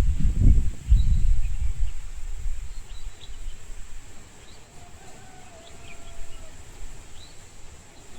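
Low buffeting rumble on the microphone for the first two seconds, then outdoor ambience: small birds chirping faintly, scattered throughout, over a steady high-pitched hum.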